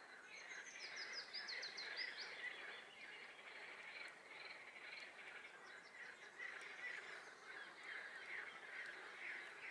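A dense, continuous chorus of frogs calling in a spring swamp. Near the start a songbird sings a short run of quick, descending high notes over it.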